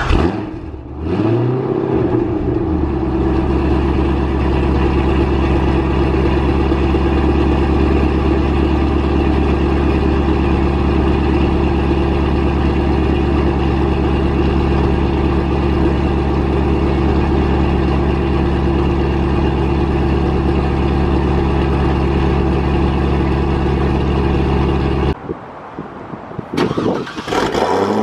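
Cold start of a supercharged 6.0-litre LS2 V8 breathing through SLP headers, an X-pipe and a Corsa Extreme exhaust. The starter cranks briefly, the engine catches about a second in and flares up, then it settles into a steady idle. The sound cuts off abruptly about 25 seconds in, and a short burst of a different engine sound follows near the end.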